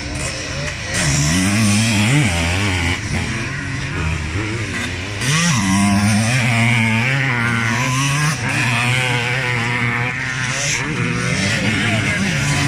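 Several classic motocross motorcycles racing, their engines revving up and down together, louder about a second in and again around five and a half seconds in as bikes come closer.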